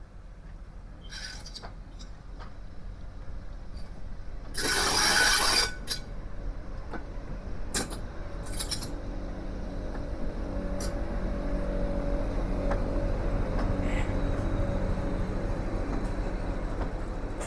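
Railway train noise: a few clicks and a loud hiss lasting about a second, then a low rumble with a steady hum that builds up and holds.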